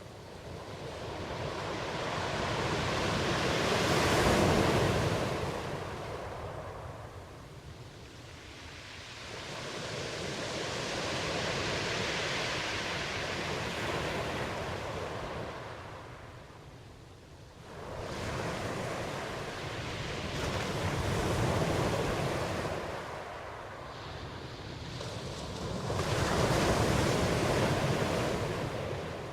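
Ocean waves breaking and washing back in slow swells, about four surges each rising and fading over several seconds.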